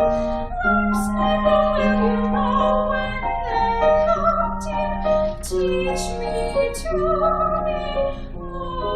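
A female singer singing in classical style with piano accompaniment, holding long notes with vibrato.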